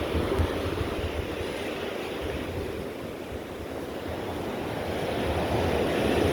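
Ocean surf washing onto the beach in slow swells, with wind buffeting the microphone.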